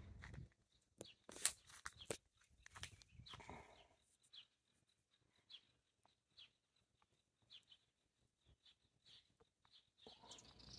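Near silence: a few faint clicks in the first two seconds, then faint, short, high chirps of small birds scattered through the rest.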